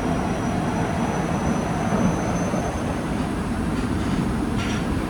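Nagoya subway 2000 series electric train running, heard from inside the car: a steady rumble of wheels and running gear, with a faint high tone that fades out about three seconds in.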